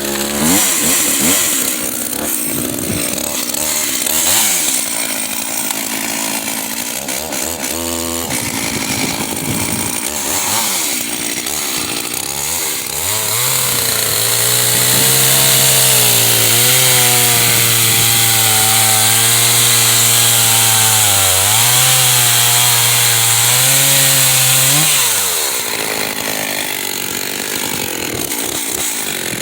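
Makita DCS520i two-stroke chainsaw running. It starts at low, uneven revs, then from about halfway it is held at high revs for about ten seconds, with a brief dip in pitch and a recovery. Near the end it drops back to idle.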